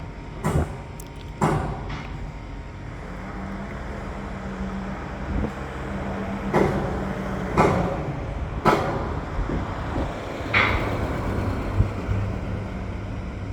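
Construction site noise: about six sharp bangs and knocks at irregular intervals, over a steady low hum from a running engine.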